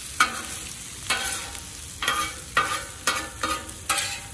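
A long metal spatula scraping and turning shrimp fried rice on a hot Camp Chef FTG600 flat-top griddle. About seven quick scrapes sound over a steady sizzle.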